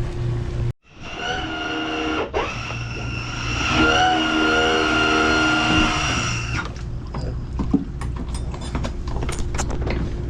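Jet-drive tender running at speed, its engine and jet giving a steady high whine that shifts slightly in pitch and eases off about six and a half seconds in. Scattered knocks and splashes of water on the hull follow.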